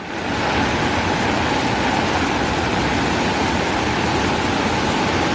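Floodwater rushing in a swollen river, a loud steady roar that starts suddenly and holds without change.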